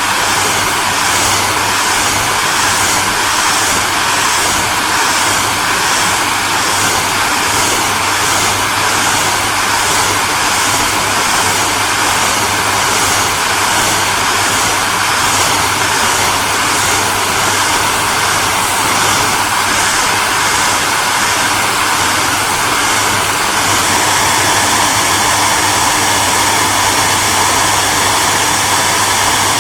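Electric hair dryer running steadily: a loud, even rush of air over a low motor hum. A faint flutter comes about once a second in the hiss until about three-quarters of the way through, where the tone shifts slightly and the flutter stops.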